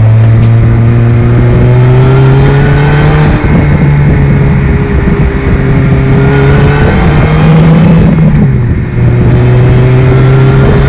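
Supercharged Honda K24 2.4-litre four-cylinder engine of an Ariel Nomad, heard from the open cockpit while the car is driven under power. The engine note rises slowly, with two brief dips about three and eight seconds in.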